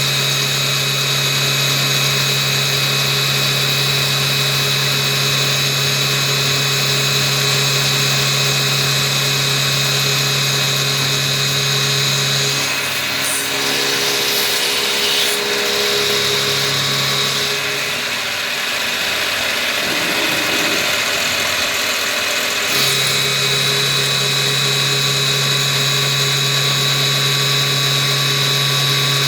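CNC milling machine running a 10 mm four-flute end mill through steel: a steady hum with a high whine. The steady tones drop out for about ten seconds in the middle, where the sound changes, then return unchanged.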